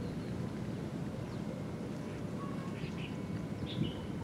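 Several short, high bird chirps, clustered about three seconds in and near the end, over a steady low rushing background noise.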